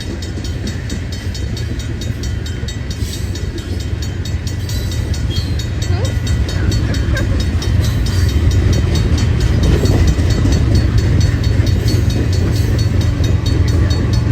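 A train led by three GE ES44AC diesel locomotives passing close by, its deep rumble growing steadily louder, with a fast, even ringing from the crossing bell.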